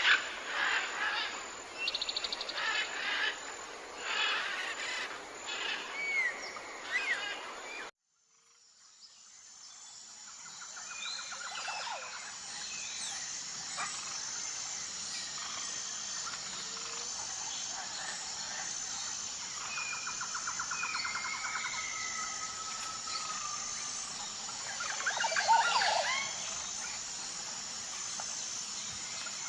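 Outdoor nature ambience: many birds chirping and calling for the first several seconds, then a sudden cut to silence about 8 seconds in. A different recording fades in, with a steady high pulsing chorus of insects under scattered bird whistles and trills. A loud flurry of calls comes a few seconds before the end.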